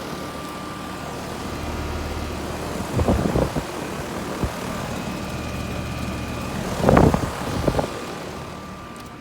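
Brand-new 2020 Ruud central air conditioner's outdoor condenser unit running: a steady fan whoosh over a low hum with a faint steady whine. Two louder rumbling bursts break in about three and seven seconds in.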